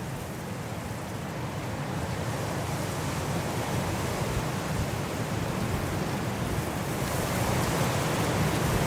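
Winter wind blowing as a steady rush, swelling gradually louder as a gust builds.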